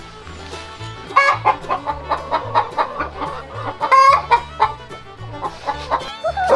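Chickens clucking in a series of short calls, over background music with a steady bass beat.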